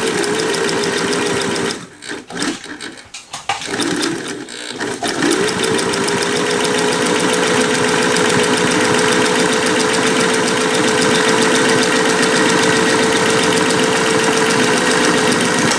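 Singer Touch and Sew 758 sewing machine, its motor and gears newly replaced, running and stitching forward in straight stitch. A short run, a few stop-start bursts, then a steady run from about five seconds in.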